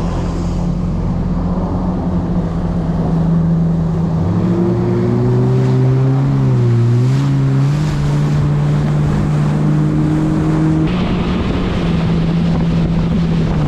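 Jet ski engines running steadily on open water. A second machine's engine note comes in about four and a half seconds in and dips briefly in pitch around the middle as its throttle or distance changes, with water spray and wind on the microphone.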